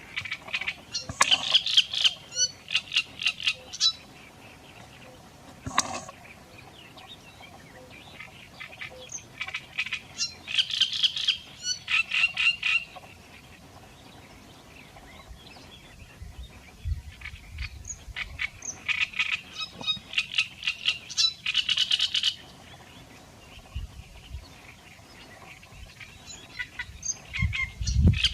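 A bird calling in repeated bouts of rapid, high chattering notes, each bout lasting a few seconds with pauses between, and one short sharp call in one of the gaps.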